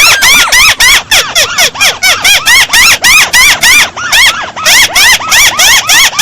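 Volume-boosted recording of a chim mắt xéo bird calling: a fast, loud run of ringing notes, about four or five a second, each rising and then falling in pitch.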